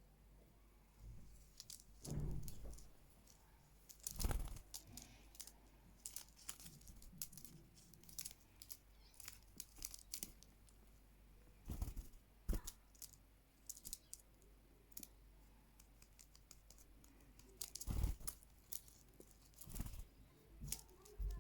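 Small pet bird playing: irregular pecking clicks and scratchy tearing and crinkling, with a few louder knocks about 2, 4, 12, 18 and 20 seconds in.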